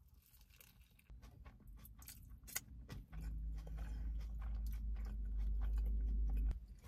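Close-up biting and crunchy chewing of a soft-shell crab spider hand roll in crisp nori, with many small sharp crunches, including a hard bit the eater takes for a crab leg. A low steady drone comes in about three seconds in and stops suddenly near the end.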